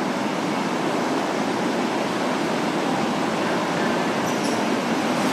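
Steady, even noise of a Tokyu 5000 series electric train standing at the platform with its onboard equipment running.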